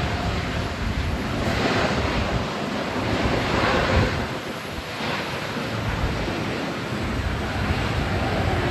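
Strong typhoon wind buffeting the microphone in gusts, a heavy rumbling rush that swells and eases.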